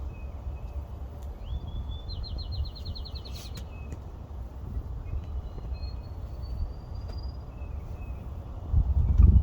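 Small songbirds singing in the woods: brief chirps, one song that ends in a fast, even trill of about a dozen notes, and a thin rising whistle. A steady low rumble runs underneath and grows louder near the end.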